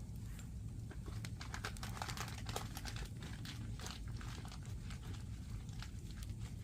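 Firewood burning and crackling: irregular sharp snaps and pops over a steady low rumble.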